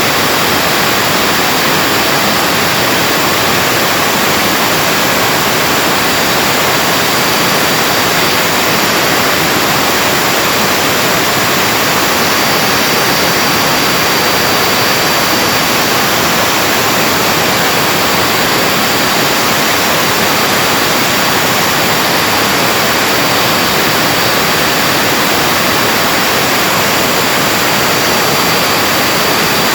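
Vacuum-cleaner universal motor running at full speed: a steady rush of air with a thin high whine held throughout.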